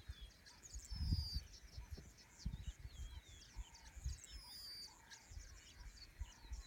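Several birds chirping and whistling, many short overlapping calls and a few sliding whistles, with irregular low thumps and rumble on the microphone.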